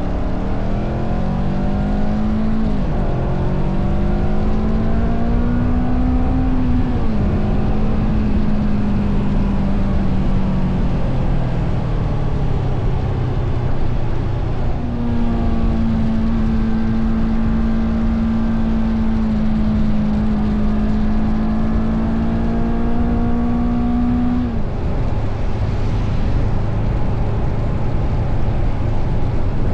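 Honda CBR500R's parallel-twin engine under way, revs climbing and dropping with a gear change about 3 s in. Later it holds a steady pitch for about ten seconds before the revs fall off suddenly near the end, over a steady low rush.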